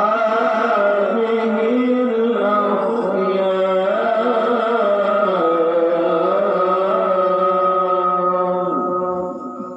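Male qari reciting the Quran in the melodic style, singing one long ornamented phrase with slow rises and falls in pitch. The phrase fades out near the end.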